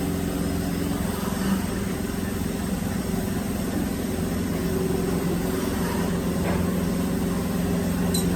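Motor of a woodworking machine running with a steady, even hum.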